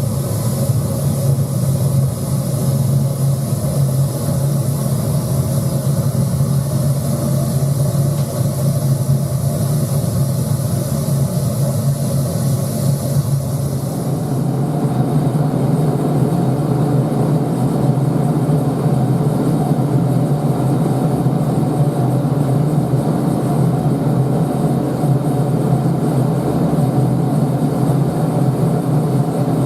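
Burner of a metal-melting foundry furnace firing: a steady, loud rush with a strong low hum. About halfway through, the high hiss drops away and the middle of the sound grows fuller.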